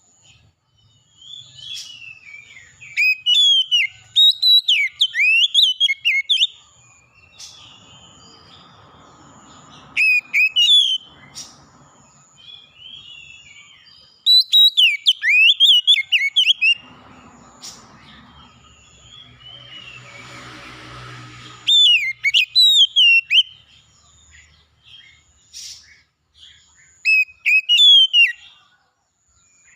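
Oriental magpie-robin (kacer) singing loud, clear whistled phrases in bursts every few seconds, with a thin high note repeating behind it and a soft hiss between some phrases.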